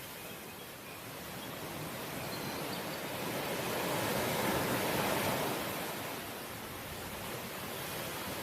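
Ocean waves: a steady wash of surf that swells to a breaking crest about halfway through and then recedes.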